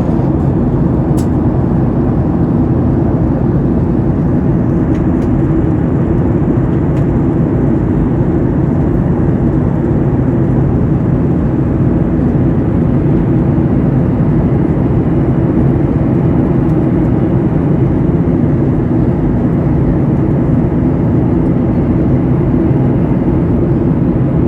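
Airliner cabin noise during the climb after takeoff: the engines and rushing air make a loud, steady drone, heard from inside the cabin. A faint click sounds about a second in.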